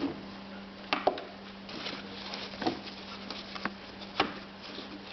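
Plastic toy dollhouse bed and bedding being handled: about five light taps and clicks with soft rustling between them, over a steady low hum.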